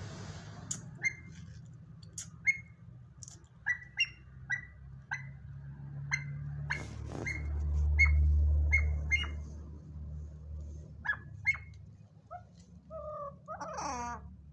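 A bird giving about twenty short, sharp chirps at irregular intervals, ending with a longer call of several tones near the end. A low rumble swells and fades in the middle.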